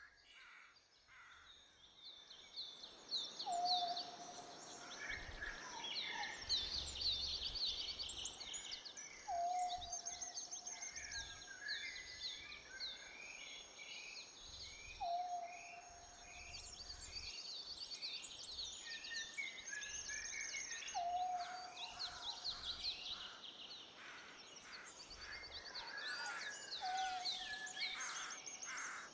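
Many small birds chirping and trilling together. A lower held note, dropping briefly at its start and then steady, repeats about every six seconds beneath them.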